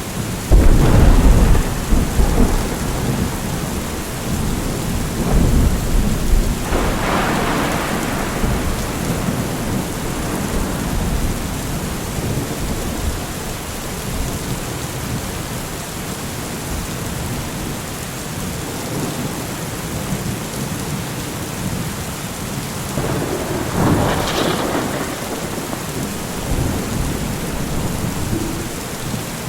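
Thunderstorm: steady heavy rain with rolling thunder, a loud clap and rumble about a second in, more rumbling a few seconds later, and another roll of thunder near the end.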